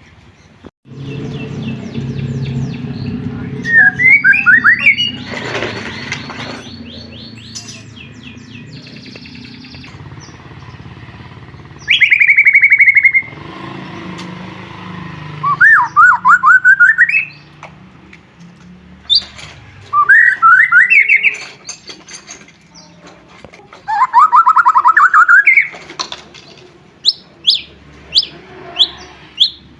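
White-rumped shama (murai batu) singing in loud, varied phrases: fast trills and rising runs of notes separated by short pauses, and a quick series of sharp chips near the end, over a low background hum.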